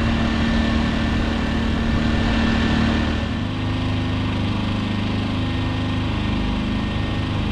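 Two Champion inverter generators running steadily, warming up so the oil is hot for an oil change. About halfway through, the engine note shifts as the engine speed changes.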